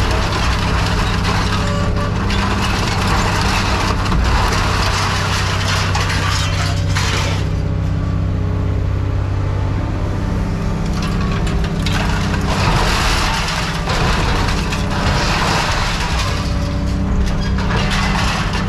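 Heavy scrap-yard machinery running with a steady low drone, with long spells of crunching and scraping scrap metal.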